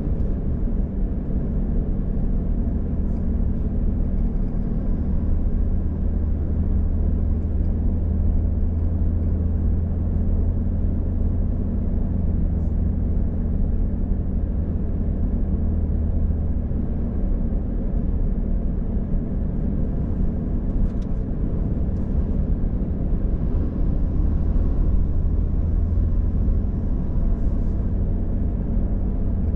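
Steady drone of a car on the road, a low hum of engine and road noise that holds at an even level throughout.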